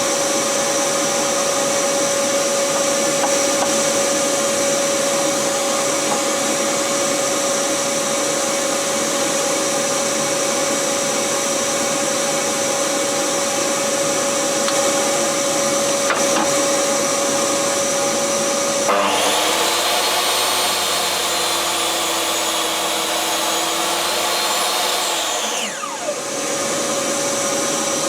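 Woodworking power tool running steadily, a motor whine over a rushing noise. For several seconds around two-thirds of the way through the sound changes to a lower, slightly rising tone, then returns to the first steady sound.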